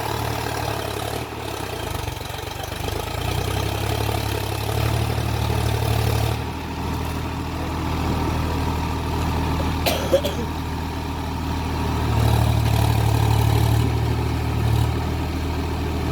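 Solis 5015 tractor's diesel engine running steadily, growing louder for a couple of seconds near the end. A single sharp click sounds about ten seconds in.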